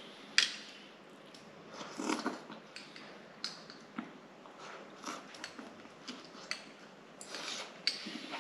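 A person eating turkey neck with soup and rice: chewing and biting, with irregular small clicks and wet smacks.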